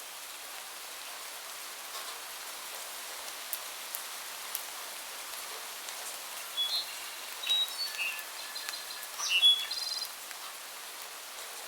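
Steady hiss of rain with faint drip clicks, and small birds calling from about six and a half seconds in until about ten seconds in, in short high chirps and whistled notes.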